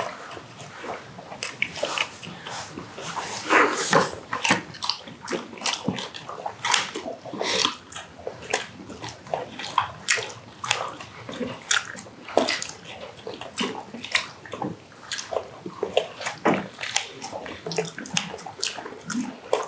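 Wet chewing and smacking of people eating braised pig's trotters (jokbal): a dense run of irregular short wet clicks and crackles.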